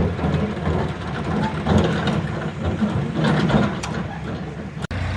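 Tractor engine running, with a steady low hum; the sound drops out abruptly for an instant near the end.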